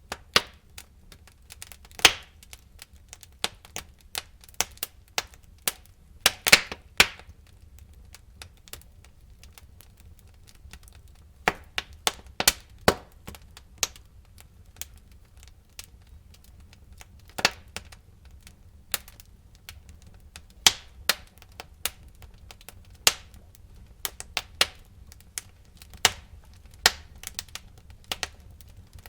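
Wood fire burning in a fireplace, crackling and popping in irregular sharp snaps, with a low steady rumble underneath; the loudest pops come about two seconds in and again around six to seven seconds in.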